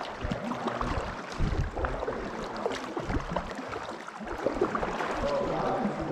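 Kayak paddling in calm water: paddle blades dipping and splashing, with scattered small knocks and drips.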